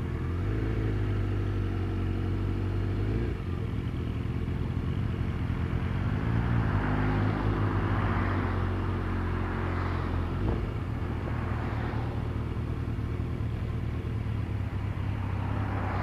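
Motor vehicle engine running steadily on the move, with road and wind noise; the engine note dips and climbs again about six seconds in.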